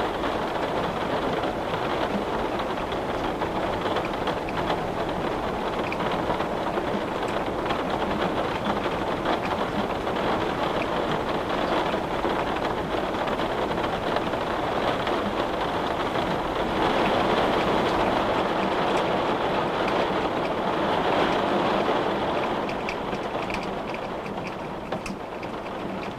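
Steady rain falling on a window, swelling heavier in the middle, with separate drops ticking near the end.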